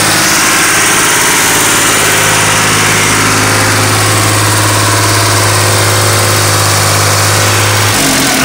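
Case IH JX55T tractor's diesel engine running steadily at constant speed, with a strong low note that changes and breaks up just before the end.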